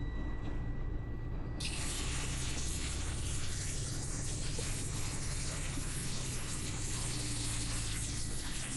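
Semi truck driving on a wet road: a low steady engine hum, joined suddenly about a second and a half in by a steady hiss of tyre spray and rain.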